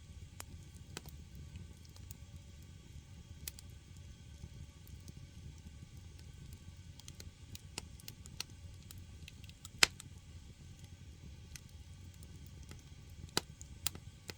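Firewood burning in a traditional Korean agungi firebox: irregular sharp crackles and pops over a low steady rumble, with one loud pop about two-thirds of the way through and two more near the end.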